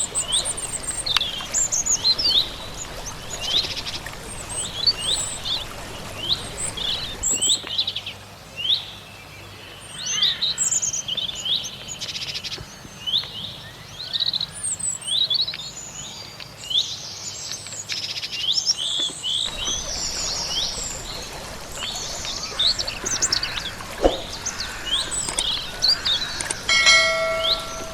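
Several small songbirds chirping and singing continuously, a quick run of short sweeping chirps and trills over a steady background hiss. Near the end a brief, steadier call with a clear held pitch stands out.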